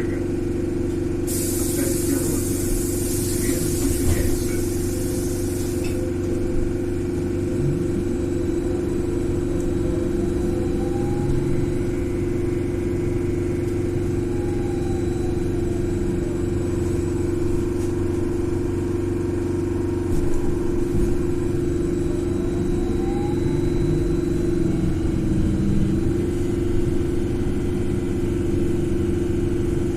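Cabin sound of a BKM 42003A "Vitovt" trolleybus under way: a steady electric hum, with the whine of the traction drive rising and falling in pitch a few times as it speeds up and slows. A hiss runs over the first few seconds and stops about six seconds in.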